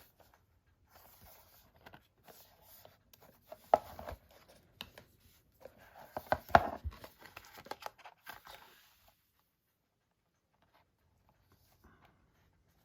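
Cardboard packaging being handled: rustling, scraping and crinkling, with two sharp knocks about four and six and a half seconds in, then it goes quiet.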